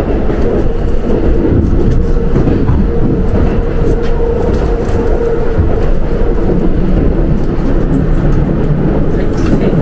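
Passenger train running, heard from inside the carriage: a steady, loud low rumble of wheels on rails, with a faint steady hum in the first half.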